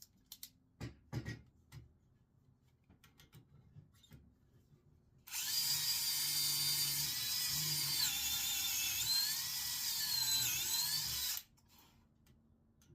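A few light knocks and clicks, then a power drill runs for about six seconds. Its pitch dips a couple of times near the end as it comes under load.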